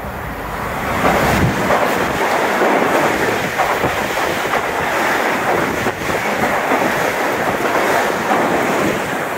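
Metro-North M8 electric multiple-unit train running past close alongside the platform: a loud, steady rush of wheels on rail and moving air that swells about a second in and eases off near the end.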